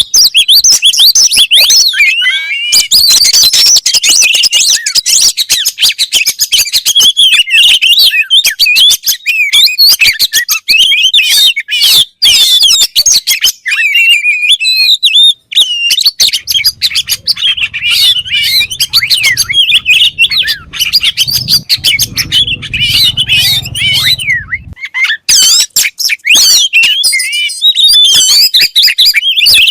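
Oriental magpie-robin (kacer) singing loudly and continuously, a rapid run of varied whistles, trills and chattering notes. A low hum sits under the song from just past halfway until about five seconds before the end.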